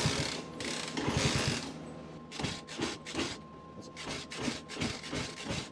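Honda C200's small single-cylinder engine catching for a moment and sputtering, then firing in uneven separate pops as it fails to keep running, typical of a carburettor fault.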